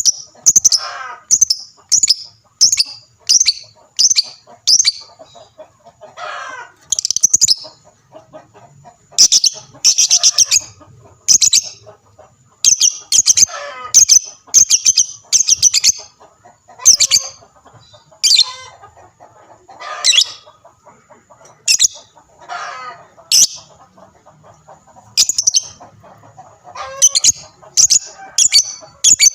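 Lovebird singing: clusters of short, sharp, high-pitched chirps repeated several times a second, broken now and then by a lower, wavering trill.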